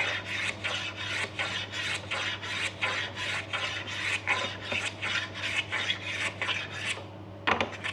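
Hand plane taking very fine shavings off an ebony splice on a snooker cue butt, in quick repeated scraping strokes that stop about seven seconds in, followed by a couple more strokes. A steady low hum runs underneath.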